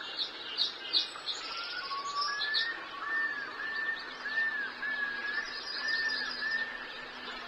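Wild birds chirping and singing. Quick high chirps mix with a repeated short, arched whistled note, about two a second.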